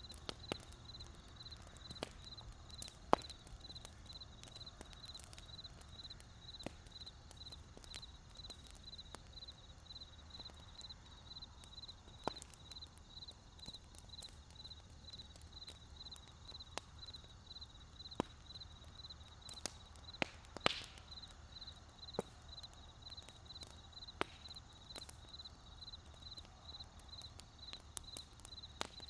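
Wood fire crackling: scattered sharp pops and snaps at irregular intervals over a low rumble, with the loudest snap about three seconds in and another about twenty seconds in. An insect chirps throughout in a steady, evenly pulsed high tone.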